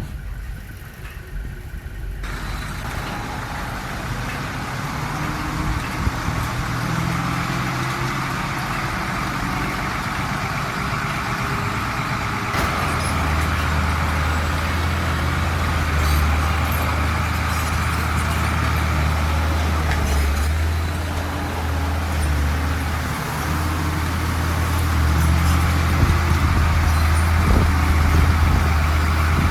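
Heavy diesel engine of earthmoving machinery running under load, slowly growing louder; a deep steady rumble sets in about twelve seconds in.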